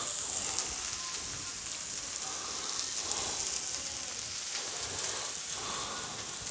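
Shrimp and vegetables sizzling on a hot flat-top griddle, a steady frying hiss with light crackles that eases slightly after the first second.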